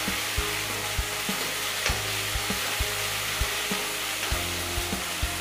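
Onions and ginger-garlic paste sizzling in hot oil in a metal kadai while a steel spoon stirs them, scraping and knocking against the pan about twice a second.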